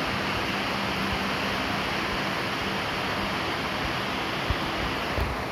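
Steady rain falling, an even hiss, with two brief low thumps near the end.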